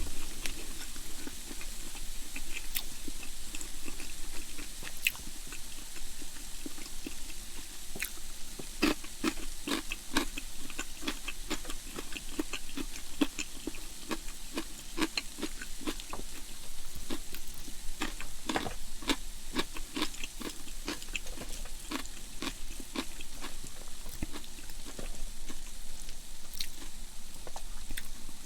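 A person chewing food close to the microphone, with many short wet clicks and smacks and a few crunches. The chewing is busiest in the middle stretch.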